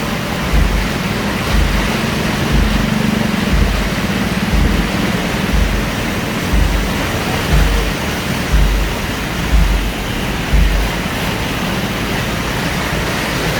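Heavy rainfall, a loud, steady hiss of rain and water, with low thumps about once a second.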